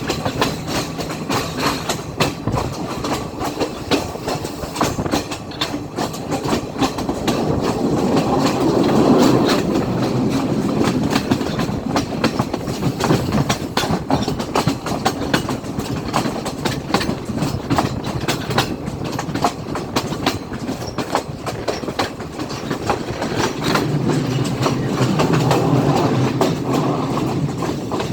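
Class S14 diesel multiple unit running along the line, its wheels clattering in an irregular clickety-clack over the rail joints under a steady rumble. It swells louder about a third of the way in and again near the end.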